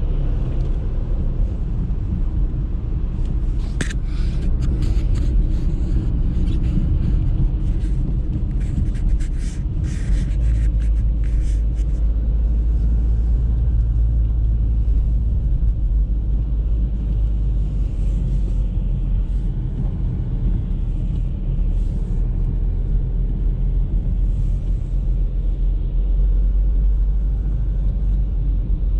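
Audi A3 driving on a snowy road, a steady low rumble of engine and tyres. For several seconds starting about four seconds in, a flurry of sharp ticks sounds over it.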